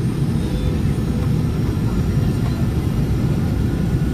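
Steady low rumble of airliner cabin noise on the approach to landing: engine and airflow noise heard from inside the Boeing's cabin.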